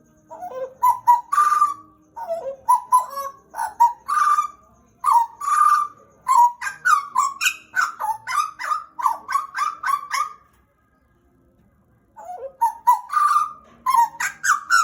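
Pied butcherbird singing: loud runs of short, fluting whistled notes that slide up and down, delivered in quick phrases, with a pause of about a second and a half near the end before the song resumes.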